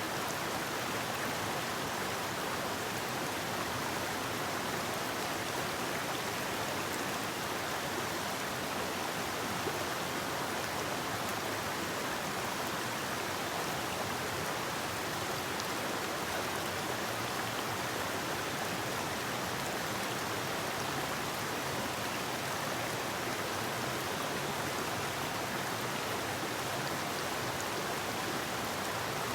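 A forest river running over rocks: a steady, even rush of flowing water.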